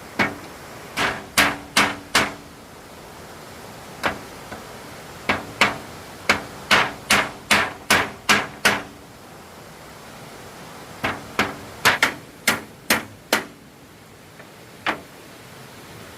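Hammer striking wood in runs of quick blows with short pauses between them, some blows with a short ringing note.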